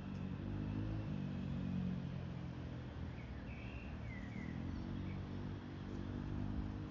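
Low, steady engine hum from a distant motor vehicle, with a few short bird chirps in the middle.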